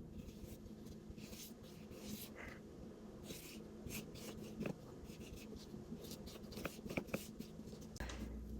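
Paintbrush loaded with acrylic paint brushed in repeated soft strokes across primed paper, with a few light taps and clicks.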